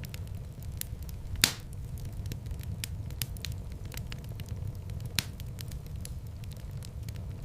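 Wood fire crackling, scattered pops over a low steady rumble, with one loud pop about a second and a half in and another about five seconds in.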